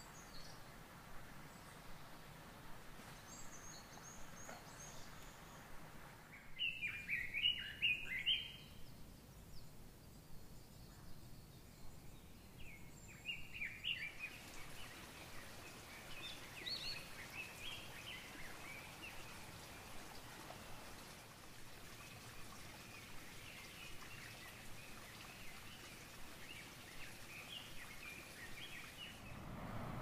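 Wild birds singing over a steady background hiss. A loud burst of song comes about six to eight seconds in, then a long run of chirping notes fills most of the second half.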